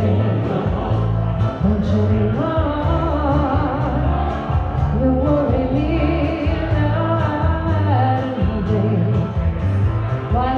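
Live band playing a rock-and-roll number, a wavering melody line over a steady bass and drum groove.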